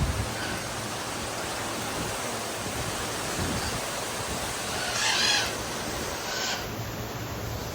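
Strong dust-storm wind blowing steadily over the microphone, with a bird squawking once about five seconds in.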